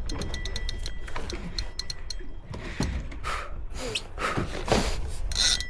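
Fishing reel clicking in quick, even strokes for about the first second as line is worked against a big fish, then a few irregular rushes of noise.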